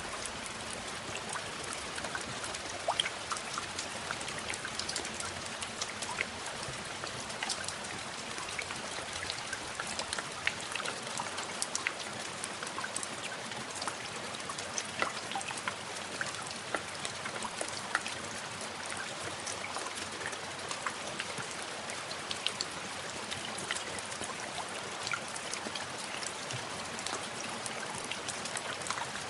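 Steady rain falling, with many small drop ticks scattered through an even hiss.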